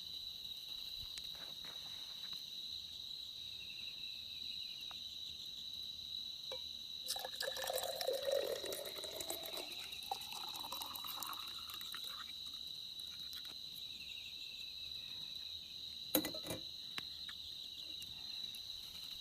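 Crickets chirping steadily. About seven seconds in, liquid is poured into a container for a few seconds, the pitch rising as it fills, followed by a few light clicks near the end.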